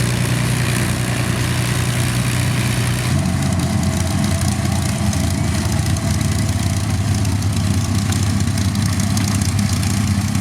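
The Avro Lancaster's four Rolls-Royce Merlin V12 piston engines running steadily at low power as the bomber taxis. The engine note shifts slightly about three seconds in.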